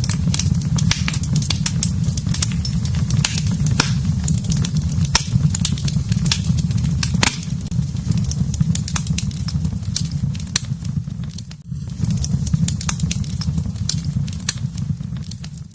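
Wood fire burning in a fireplace: dense crackles and sharp pops over a steady low rumble, which dips briefly about three-quarters of the way through.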